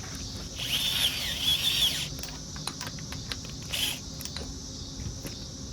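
Light metallic clicks and handling noise from hand-fitting bolts on the compressor's shaft-seal cover, with a brief high squeak about a second in, over a steady high insect drone.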